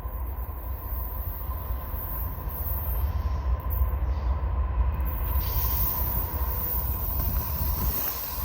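Long freight train's cars rolling past: a steady low rumble with a faint steady high whine, getting a little louder about five seconds in.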